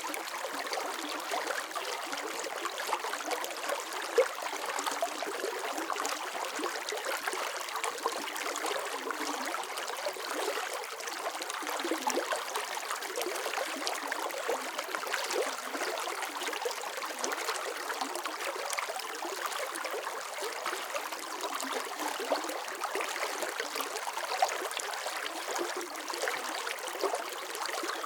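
Water flowing and trickling steadily in a stream, with small splashes and bubbling throughout.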